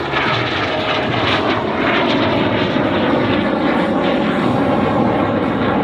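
Snowbirds' Canadair CT-114 Tutor jets flying past in formation, a steady loud turbojet roar.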